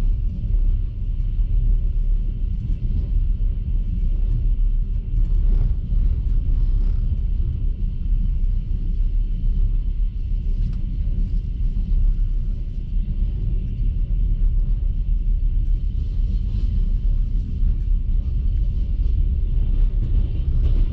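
Steady low rumble of a moving passenger train heard from inside the coach: the wheels running on the rails and the carriage's running noise, with a faint steady whine over it.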